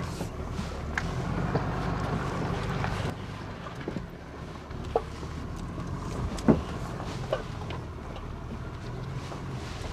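Dually pickup truck crawling up a rocky trail: steady low engine rumble, with a few short sharp squeaks and knocks from the truck as it works over the rough ground, the loudest about two-thirds of the way through.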